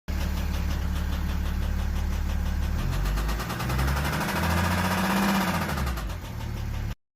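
BMW 330d E90's straight-six diesel engine running with a knocking clatter at idle. About three seconds in it is revved, rising and falling back to idle, and the sound cuts off suddenly near the end. The owner is unsure whether the knock comes from an injector or from a piston and connecting rod.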